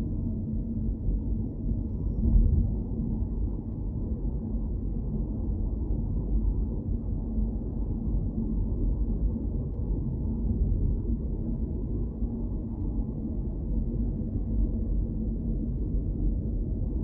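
Steady low rumble of a moving car's road and engine noise, with a brief louder swell about two seconds in.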